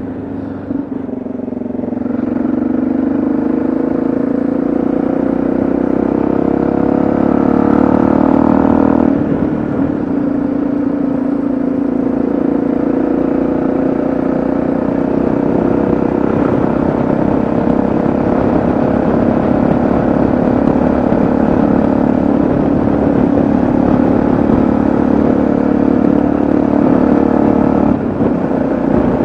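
Yamaha XT660Z Ténéré's single-cylinder engine under way, its pitch rising as the bike accelerates, then dropping at a gear change about nine seconds in before running steadily at cruising speed.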